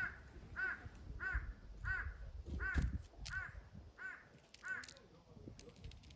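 A crow cawing in a steady series of about eight harsh caws, evenly spaced less than a second apart, stopping about five seconds in.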